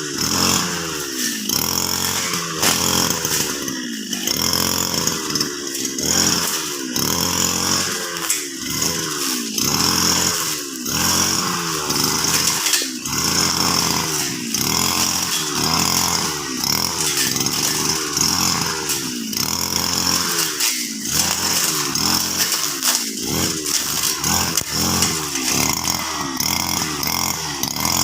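Petrol brush cutter running hard while cutting grass. Its engine pitch dips and recovers about once a second as the blade bites into the grass and frees again.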